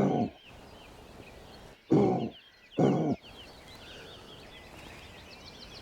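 Deer call sounded to imitate fallow deer: short, low grunts, one at the start and a pair about two seconds in, meant to lure fallow deer in the rut. Faint birdsong runs underneath.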